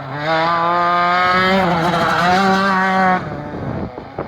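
Racing kart engine running hard at high revs on the autocross course, its pitch rising slightly, dipping briefly about one and a half seconds in, then dropping away abruptly just after three seconds.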